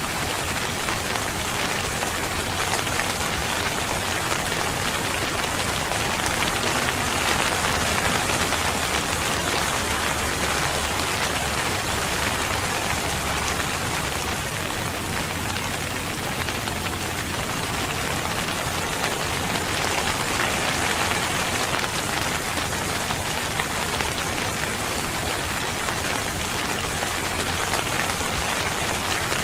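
Steady, heavy rain falling on surfaces, a dense even patter.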